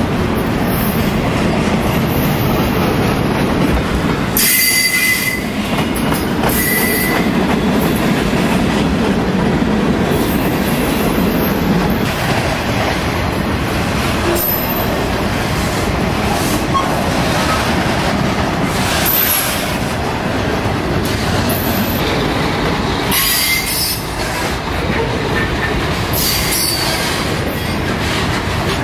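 Freight train cars rolling past close by, a continuous rumble of steel wheels on rail. Brief high-pitched wheel squeals come a few times, about five seconds in and again near the end.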